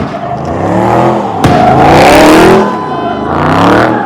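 Car engine revving hard, its pitch rising and falling several times, with a sharp crack about a second and a half in.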